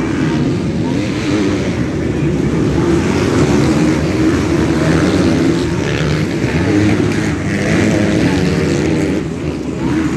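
Motocross motorcycles racing, engines revving up and down continuously, with a brief dip about nine seconds in.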